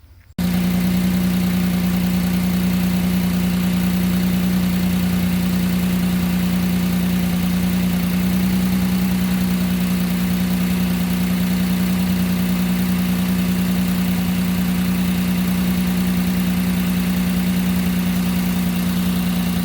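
2006 Nissan Murano's 3.5-litre V6 idling steadily with its new spark plugs and ignition coils fitted, a constant low engine hum. It cuts in abruptly just after the start.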